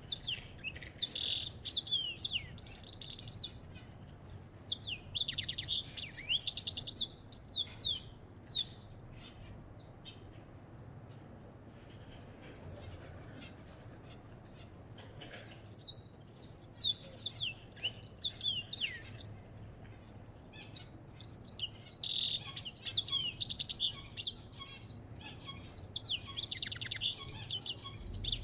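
A goldfinch singing a rapid, twittering song of fast, high chirps and trills in two long bursts, pausing for several seconds in the middle.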